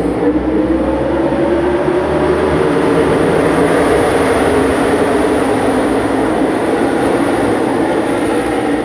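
A field of NASCAR stock cars' V8 engines running together at full throttle on a restart, the engine notes rising in pitch in the first couple of seconds as the cars accelerate.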